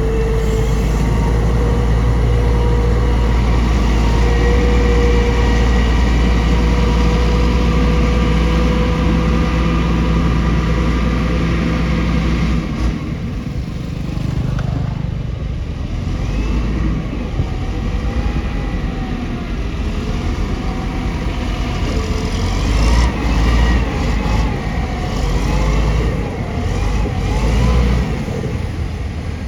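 Bulldozer's diesel engine running with a steady low hum. About halfway through the sound turns rougher and uneven, and wavering high squeals come in, typical of steel tracks squealing as the machine moves.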